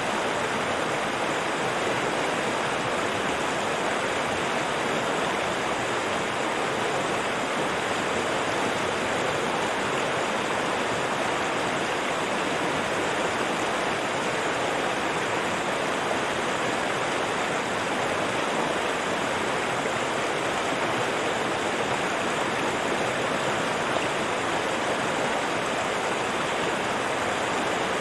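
River water rushing and splashing over rocks in a steady, unbroken rush.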